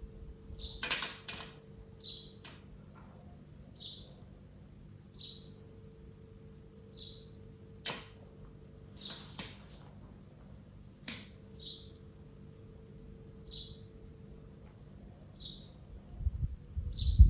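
A bird chirping over and over, one short call about every two seconds. A few sharp clicks come in between, and a faint steady hum comes and goes underneath.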